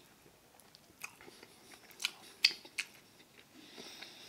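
Close-miked eating sounds of a person chewing, with four sharp, crunchy clicks between about one and three seconds in, the third the loudest.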